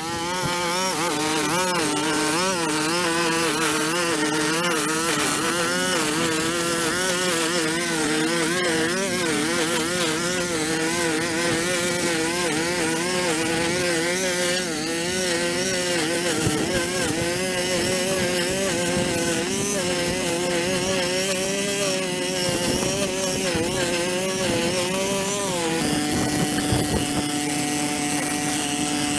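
Small petrol engine of an outdoor power tool running continuously, its pitch wavering up and down with the load; about 26 seconds in it settles to a steady note.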